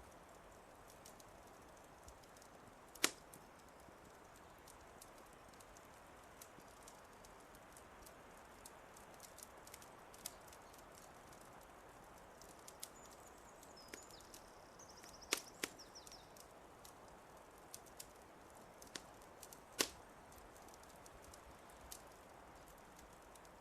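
Wood fire crackling: scattered sharp pops and snaps over a faint steady hiss, with the loudest pops about 3, 15 and 20 seconds in. A faint high bird chirping comes briefly just past the middle.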